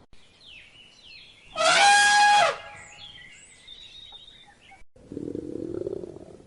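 Faint bird chirps, then a loud, harsh animal call of steady pitch lasting about a second, and about five seconds in a low, rough roar from a large wild animal begins.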